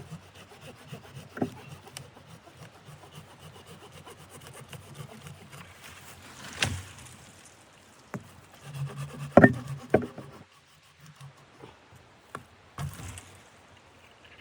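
Scraping and rubbing on wood, broken by several sharp knocks. The loudest knocks come in a cluster just past the middle, and the scraping falls away near the end.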